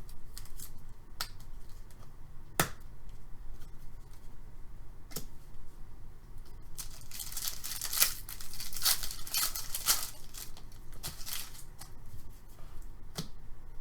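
Trading card packs being torn open and the cards handled: a few sharp clicks, and a run of crinkling and tearing from about the middle to near the end.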